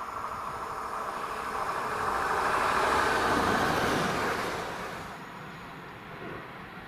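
A train passing by: the noise builds for about three seconds, peaks, then falls away quickly.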